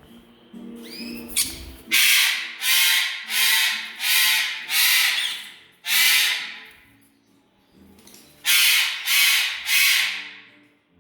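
A pet bird squawking loudly: five harsh screeches in quick succession, then after a short pause three more.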